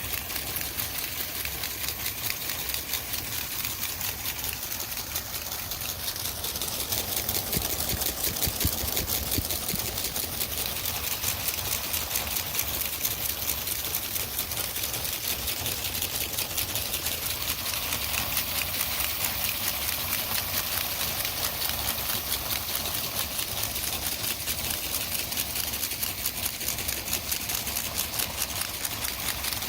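Lego electric motors driving the car wash's plastic gear trains, conveyor and rotating brushes: a steady machine whir with a rapid, even clicking, and a few louder clicks about eight seconds in.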